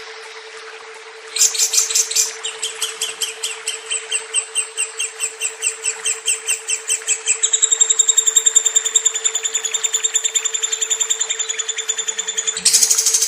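Lovebird singing a long chattering trill (ngekek): rapid high chirps start about a second in at roughly four or five a second, quicken to an even trill of about nine a second around halfway, and jump louder near the end. A steady low hum sits underneath.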